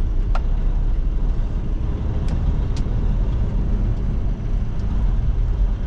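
Truck engine running with a steady low rumble while the truck is driven slowly through a tight turn, with a few light clicks.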